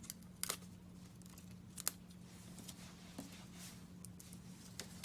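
A few short, light clicks and ticks from small card-stock pieces and glue dots being handled and pressed down by hand, with a steady low hum underneath.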